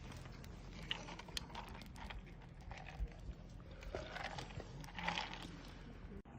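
Small wood fire crackling, with irregular sharp snaps and clicks.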